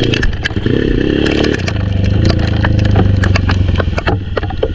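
Honda XRM125's single-cylinder four-stroke engine revving up and down, then settling to a lower, steadier note about a second and a half in, with many sharp ticks over it.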